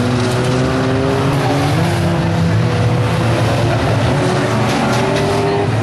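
1600cc banger race cars running flat out, several engines revving at once with their pitches rising and falling as the cars accelerate and lift off.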